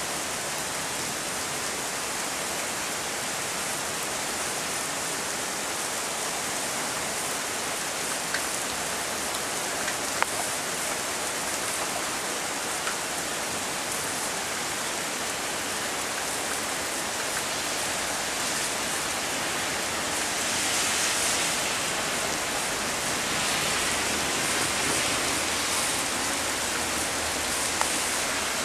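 Heavy rain pouring steadily during a thunderstorm, with a few sharp drip ticks. It grows a little louder about twenty seconds in.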